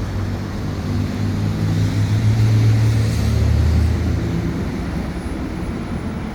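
A motor vehicle passing close by on the street: a low engine hum that swells from about a second in, is loudest around three seconds, then fades again.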